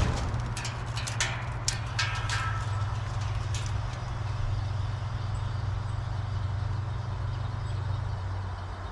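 2007 Rheem Classic (RPNE) 3-ton heat pump shutting down: the running sound drops away at the start, a cluster of sharp clicks and ticks follows over the next few seconds, and a low hum carries on until it drops again about eight seconds in.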